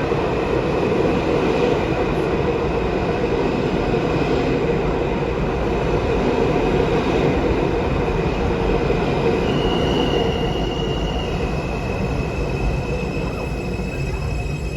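New York City subway train running along the track: a steady loud rumble with a thin, high wheel squeal that rises in pitch for a moment about two-thirds of the way through.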